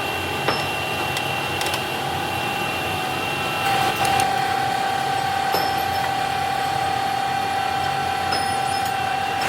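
Factory machinery running steadily, a hum with held whining tones, one whine shifting slightly about four seconds in, and a few sharp metallic clicks.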